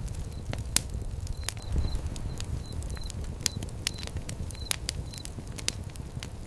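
Fire crackling: frequent sharp pops and snaps over a steady low rumble of flames.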